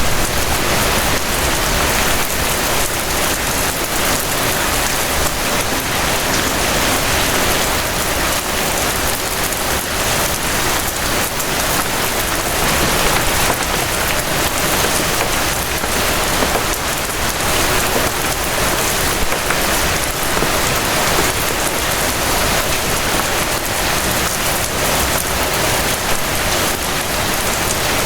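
Steady rain falling, a dense, even hiss of drops pattering on surfaces.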